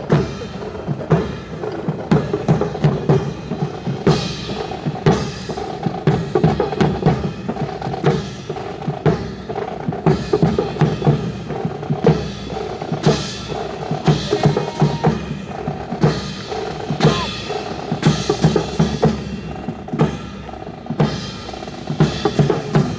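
Marching drum music with snare and bass drums playing a steady, driving beat, with rolls, for a drill team's display.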